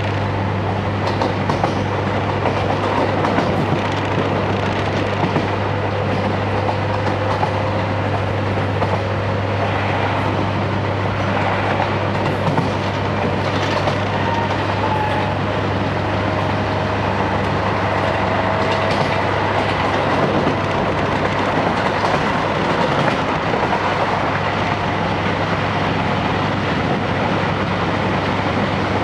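JR Hokkaido Series 711 electric train running, heard from inside the passenger car: steady rumble and rail noise with a low hum, a faint whine slowly rising in pitch through the middle, and a few light clicks of the wheels over rail joints.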